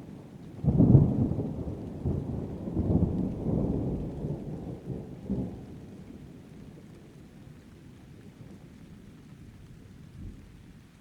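A thunderclap that cracks in just under a second in and rolls in low rumbling waves for about five seconds before dying away. Steady rain goes on underneath.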